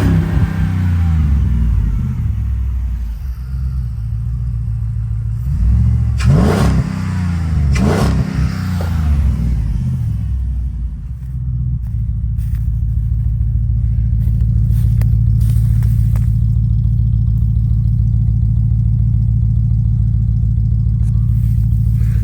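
Vehicle engine being blipped up and down in a few short revs, then settling into a steady idle.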